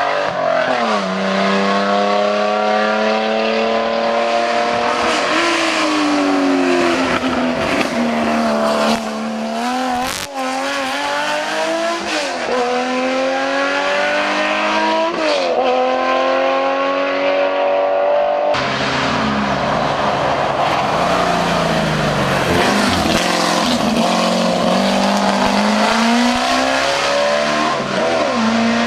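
Hill-climb race car engines at high revs, each climbing in pitch through a gear and dropping back at every upshift, with a sharp pop about ten seconds in. About two-thirds of the way through the sound changes abruptly to another car accelerating the same way.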